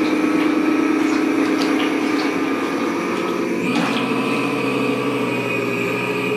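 Small electric motor of an RC model tugboat running steadily with a held whine that shifts to a new pitch about four seconds in.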